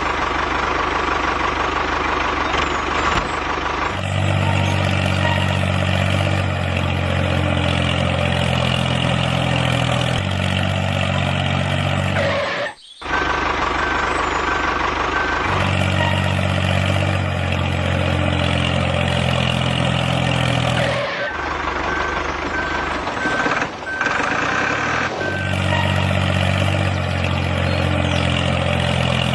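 A heavy vehicle engine running steadily, its pitch and level changing abruptly several times as if clips were cut together. A repeated high beep, like a reversing alarm, sounds in two stretches: roughly a third and three quarters of the way through.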